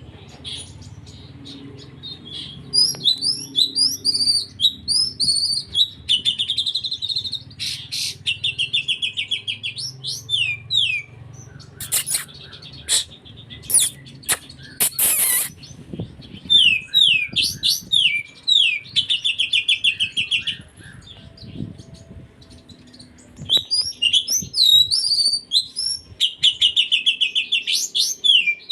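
Oriental magpie-robin singing in long bouts of fast chirps, sweeping whistles and rapid trills, filled with mimicked kapas tembak song. Around the middle the song breaks off for a few loud harsh rasping bursts.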